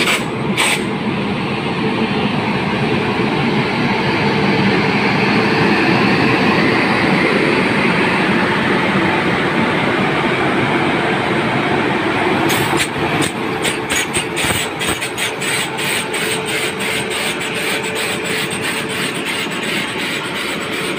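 A train running past at close range: a steady roar that swells over the first few seconds, then, from about twelve seconds in, a rapid clatter of wheels over rail joints, several clacks a second.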